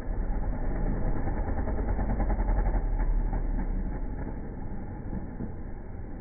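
Motocross bikes' engines racing on the track, the sound swelling to a peak about halfway through and then fading.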